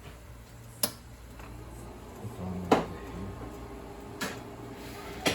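Four sharp knocks and clicks of kitchen items being handled, spread over about five seconds, the loudest near the middle, over a steady low hum.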